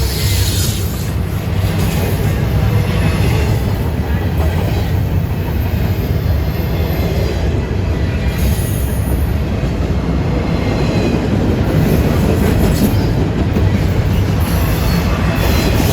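A train passing close by, its cars rolling steadily and loudly over the rails with a constant low rumble and occasional faint high wheel squeal.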